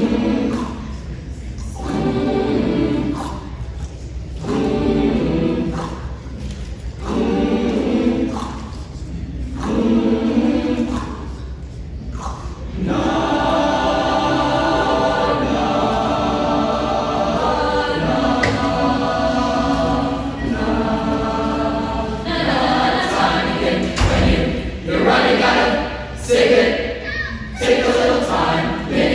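Concert choir singing: short phrases that swell and fade every couple of seconds, then long held chords, then short phrases again. A low thump sounds a little after two-thirds of the way through.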